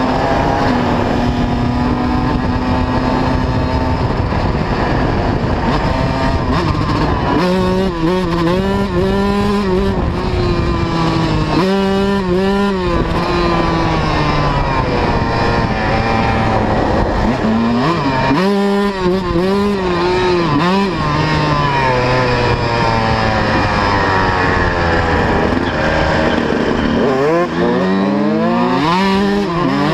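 125cc two-stroke motocross bike engine being ridden hard, its pitch repeatedly rising and falling as the throttle is opened and closed.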